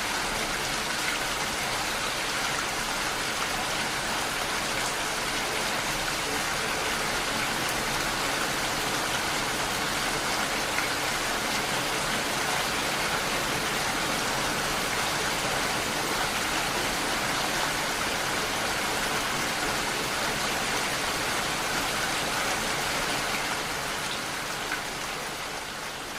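Steady rain falling, an even hiss of many drops, fading out near the end.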